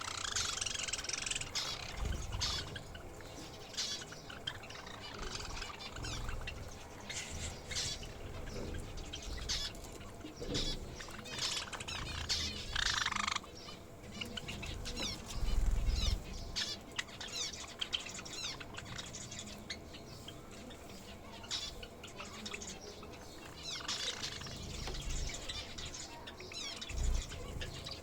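Pet aviary birds chirping and calling in quick short notes throughout, with wings fluttering and low thumps here and there as they move about.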